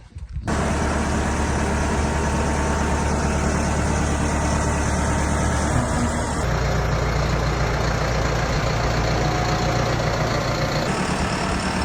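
A vehicle engine running steadily with a heavy low drone; its sound changes abruptly about six seconds in and again near the end.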